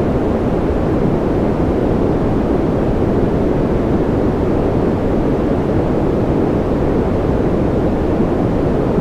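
Continuous noise for sleep, a deep, even rush with no rhythm, breaks or changes, heavier in the low range than in the hiss.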